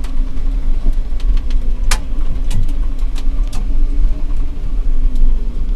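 Smith Cabac electric truck, a converted milk float, driving uphill under a heavy load: a steady electric-motor hum over a low rumble, with scattered knocks and rattles from the body, the loudest about two seconds in.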